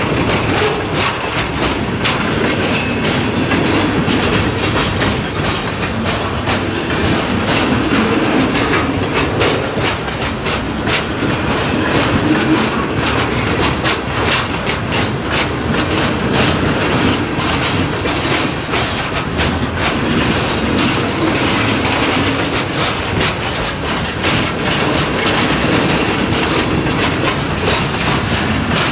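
Freight train of covered hopper cars rolling past: a steady rumble of steel wheels on rail, with frequent irregular clicks as the wheels cross rail joints.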